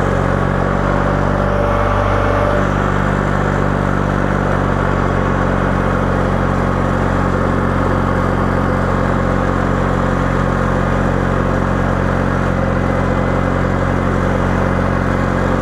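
A John Deere 318 garden tractor's engine running at a steady speed, even and unchanging.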